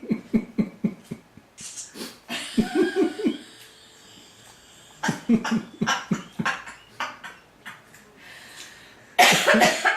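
A man panting and huffing in short rhythmic breaths, in several bouts, as his mouth burns from extremely hot chicken wings.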